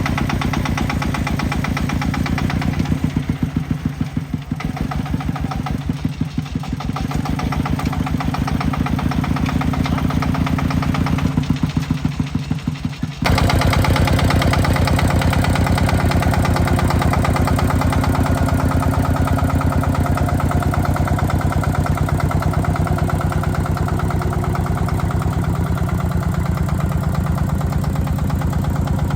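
Tractor engine running with an even, rapid pulse. About thirteen seconds in, it abruptly gets louder and steadier.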